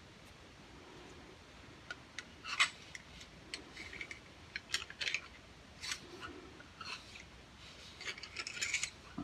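Irregular light clicks and short scrapes of small cleaning tools and metal parts being worked on a stainless derringer's barrels while lead fouling is removed, growing busier near the end.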